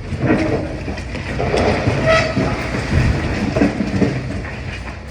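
Demolition excavator breaking up a building: uneven crunching and clanking of masonry and debris over a steady machine rumble, with a short squeal about two seconds in.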